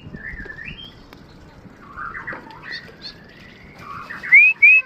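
Birds chirping and calling, ending in two loud, rising whistled notes near the end.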